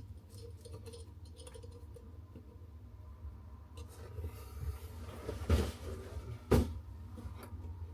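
Hand tools and tap fittings being handled while a basin mixer tap is fixed from under the basin: faint scraping and clicking, then two sharp knocks a second apart past the middle.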